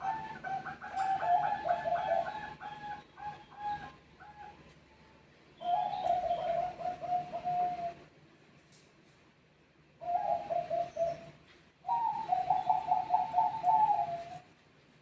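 Zebra doves, Bangkok-bred perkutut, singing back and forth in phrases of quick stuttering coos. There are four phrases: a long one at the start, then three shorter ones with pauses between them.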